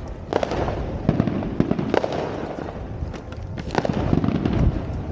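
Fireworks going off: a continuous rumble and crackle, broken by sharp bangs at irregular moments, several within a few seconds.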